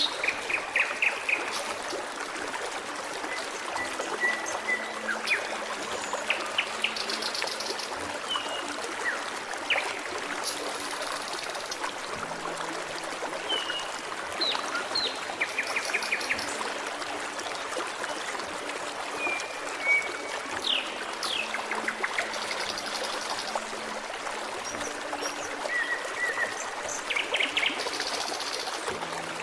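A stream trickling and babbling steadily, with several small birds chirping, trilling and whistling short notes over it.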